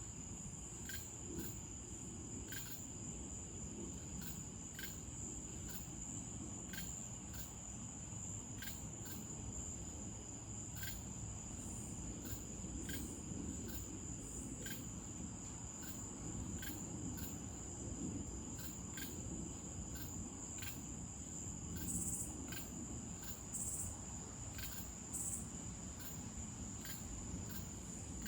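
Night insects: crickets trilling in a steady high continuous tone, with a second insect chirping in short regular pulses about once a second.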